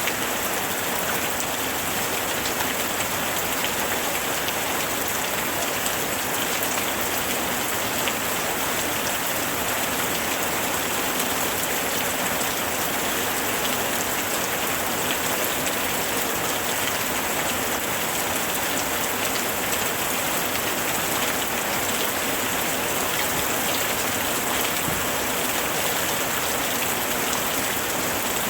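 Heavy rain falling steadily, a dense hiss of drops hitting a surface.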